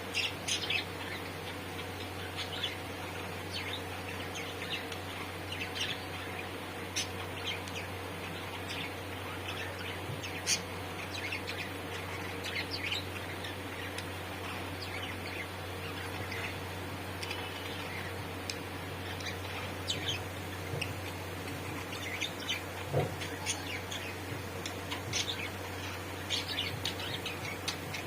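Budgerigars chirping in short, scattered tweets, over a steady low hum.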